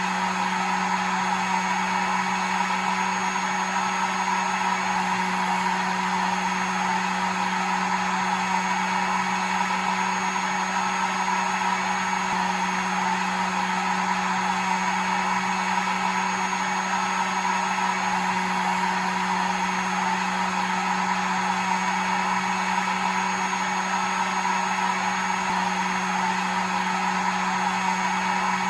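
Hair dryer running steadily: a constant motor hum with a low tone under a broad rush of blown air, unchanging throughout.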